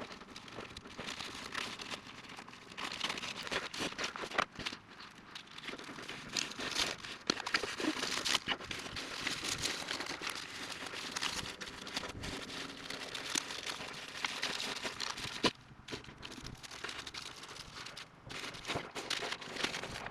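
Continuous rustling and crinkling, with many scattered sharp clicks and crackles, as of material being handled and crumpled.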